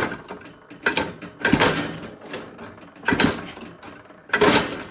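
150cc GPX engine being kickstarted: repeated short mechanical clatters about every second and a half as the kickstarter turns the engine over. It does not fire or run.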